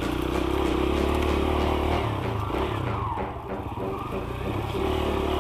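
Dirt bike engine running under throttle while ridden, its pitch rising and falling; it eases off about three seconds in and then pulls again.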